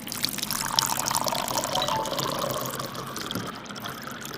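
Water pouring or running steadily, with small clicks and splashes in it.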